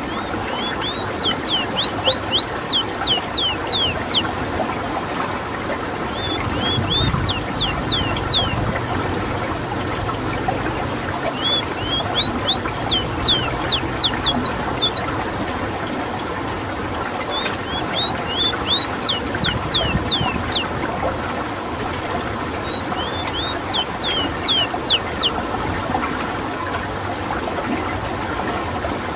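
Ruddy-breasted seedeater (rowti) singing its rolling song: five phrases of quick, high, sharply slurred whistled notes, each phrase a few seconds long, over a steady background hiss.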